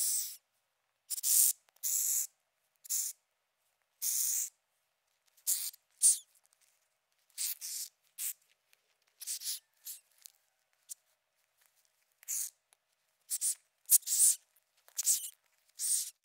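Madagascar hissing cockroach hissing: a series of short, sharp hisses, each under half a second, at irregular intervals of about one or two a second.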